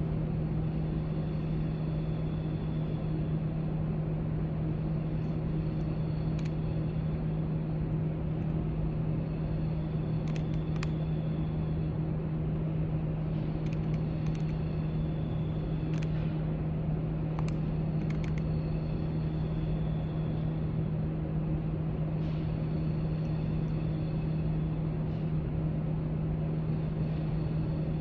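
Library room tone: a steady low hum with a constant pitched drone, and faint scattered clicks and taps now and then.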